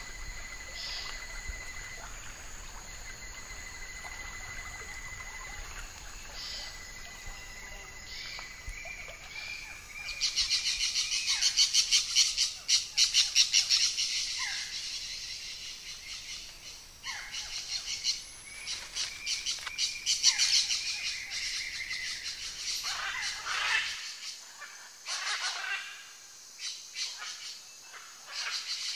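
Wild birds calling: rapid runs of high chirps, loudest about a third of the way in and again past the middle, over a steady high thin tone in the first part.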